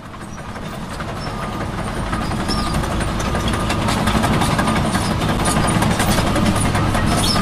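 Heavy truck engine running with a rough, clattering sound. It fades in over the first few seconds, then runs steadily.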